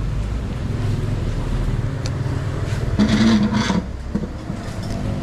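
Low, steady rumble of motor traffic, with a brief louder sound about three seconds in.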